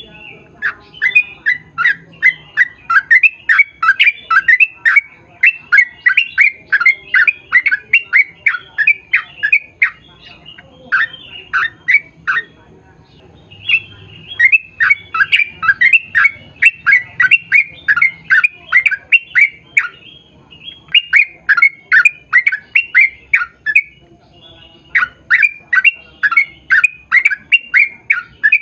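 Yellow-vented bulbul (trucukan) singing a long, rapid run of repeated, downward-sweeping notes, about four a second, in several bursts separated by short pauses.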